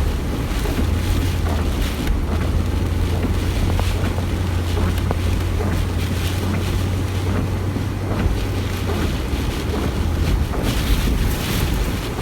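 Car driving slowly through shallow floodwater: a steady low engine and road drone with water sloshing and splashing around the car, and wind buffeting the microphone.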